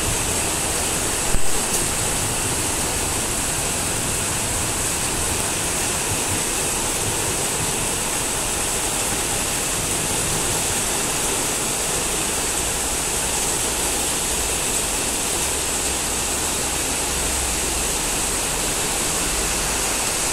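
Heavy rain pouring down in a steady downpour, an even hiss on the roofs and streets. A brief sharp knock about a second and a half in.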